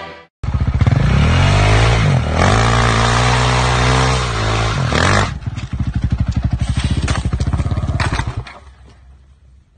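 Motorcycle engine revving hard, its pitch rising and falling, then dropping to a low, evenly pulsing run that fades out about eight seconds in.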